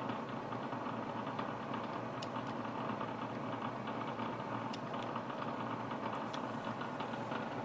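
A machine running steadily at an even level.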